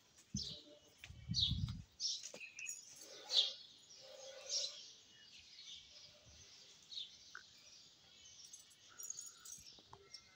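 Birds chirping: many short, high chirps that fall in pitch, scattered irregularly, with a brief low rumble about a second and a half in.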